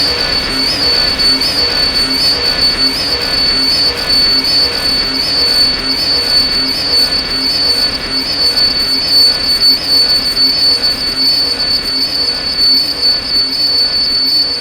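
Erica Synths Black System III modular synthesizer playing a patch: a steady high-pitched tone with a short blip repeating about every three-quarters of a second, over a lower repeating pulse pattern.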